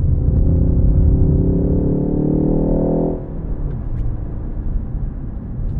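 Ford Focus ST engine accelerating through a gear, its note rising steadily for about three seconds. The note then cuts off suddenly as the throttle is lifted, leaving a low engine and road rumble.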